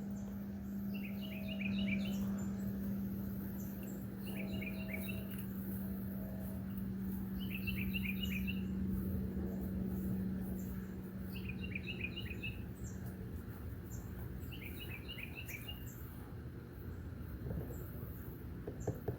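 A songbird repeating the same short trilled phrase five times, one every three to four seconds, over a steady low hum that fades out about two-thirds of the way through.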